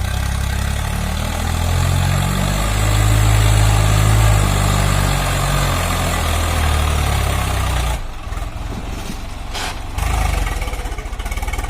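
Tractor diesel engine running loud and low, its pitch wandering up and down. About eight seconds in the sound drops abruptly and becomes quieter and rougher.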